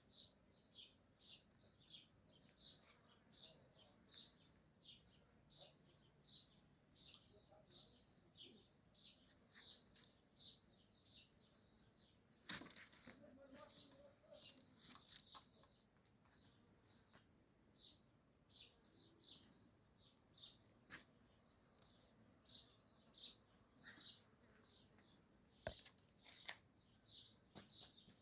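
Small birds chirping, faint short high chirps repeating about two or three times a second. A sharp click comes about halfway through.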